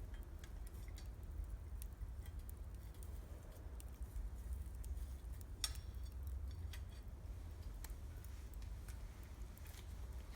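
Wood campfire crackling, with scattered irregular pops and one sharper pop a little past halfway, over a steady low rumble.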